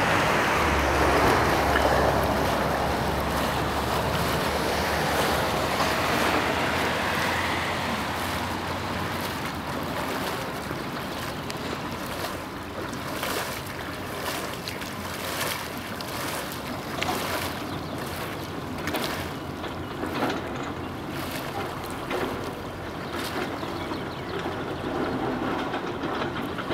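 Water rushing along the hull of a moving kayak, with wind on the microphone. The rush is loudest in the first several seconds, then eases. From about ten seconds in, frequent short clicks sound over it.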